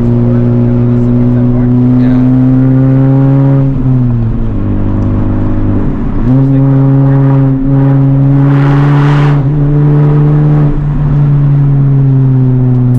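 Turbocharged four-cylinder engine of a Honda Civic Type R (FL5) with a catless downpipe and resonator delete, droning at steady revs on the move. The revs drop and climb back about four and six seconds in, with a smaller dip near the end. A rushing hiss rises and fades about eight to nine seconds in.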